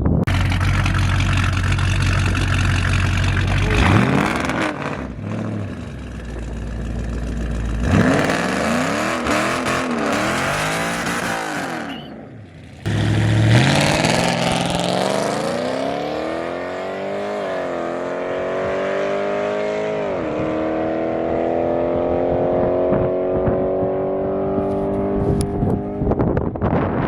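Car engine accelerating hard through the gears in a drag race: its pitch climbs and then drops back at each upshift, with a short break about halfway through.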